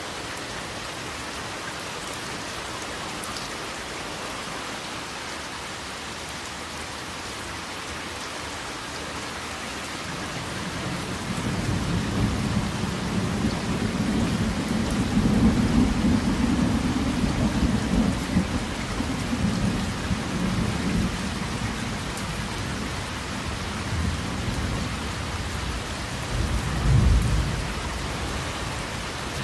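Steady rain falling, with a long low roll of thunder building about a third of the way in and fading, then a shorter rumble near the end.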